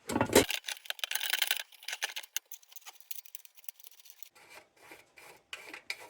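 Metal parts of a tubular lantern being handled and fitted: a knock at the start, then a quick run of small metallic clicks and scraping, thinning out, with another run of clicks starting about four and a half seconds in.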